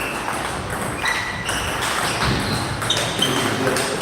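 Table tennis balls striking paddles and the table, a string of irregular short knocks and pings.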